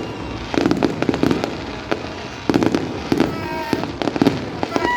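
Fireworks display: a rapid, continuous series of bangs and pops, getting louder about two and a half seconds in.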